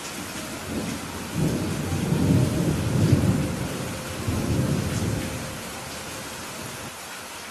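Steady rainfall with a low roll of thunder that swells about a second in, peaks in the middle, rolls again briefly and fades away.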